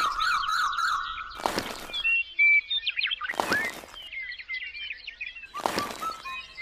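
Birdsong: many quick chirps and twitters, with a louder sharp call about every two seconds.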